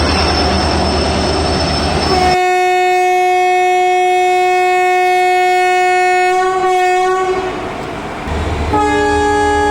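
Train running with rumbling wheel noise, then a locomotive horn sounds about two seconds in: one long steady blast lasting about five seconds. A second horn blast in a lower, different chord starts near the end and carries on.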